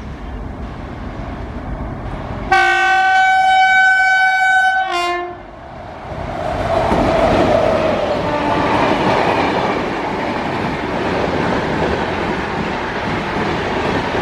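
An express train approaches, then its locomotive horn sounds one long, loud blast about two and a half seconds in, lasting nearly three seconds. The train then rushes past with loud, continuous wheel-on-rail noise.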